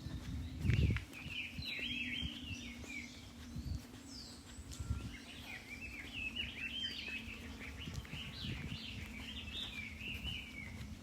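A small songbird singing in quick, chattering, warbling phrases, over a steady low hum, with low thumps, the loudest about a second in.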